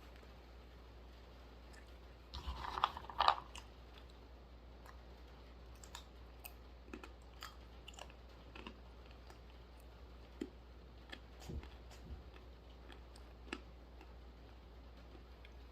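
Chewing of dry-roasted almonds, with a burst of loud crunching a little over two seconds in, then quieter scattered chewing clicks.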